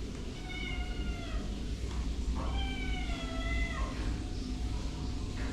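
A cat meowing twice, two drawn-out calls that fall slightly in pitch, the second longer than the first.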